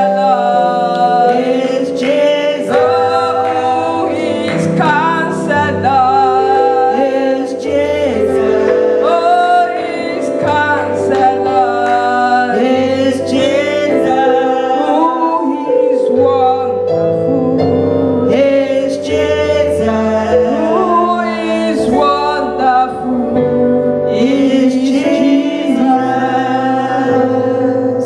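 Gospel choir singing a slow worship song over long held chords.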